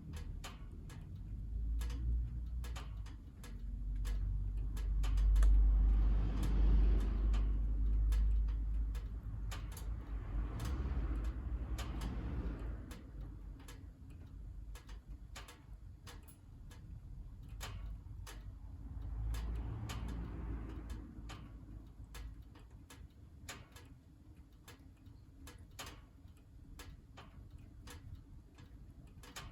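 Wood fire in a wood-burning stove crackling, with irregular sharp pops and snaps, over a low rumble that swells and fades twice.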